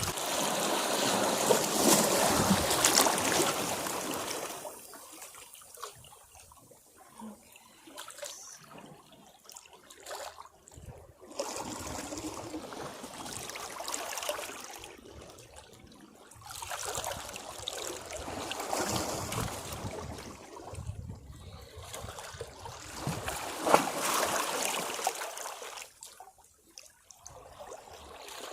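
Sea waves washing against rocks: a loud surge in the first four seconds, then quieter swells of water that rise and fall every few seconds.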